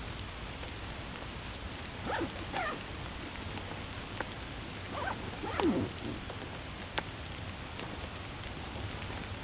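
Steady rain falling. Two pairs of short animal calls that fall in pitch come about two seconds and five and a half seconds in, and a single sharp tick is heard near seven seconds.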